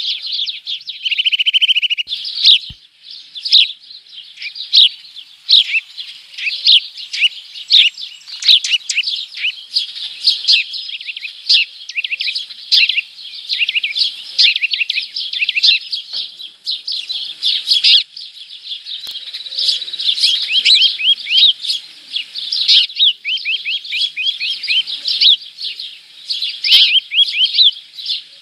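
Many small birds chirping and twittering at close range, the short calls overlapping without a break, with a rapid buzzy trill in the first two seconds.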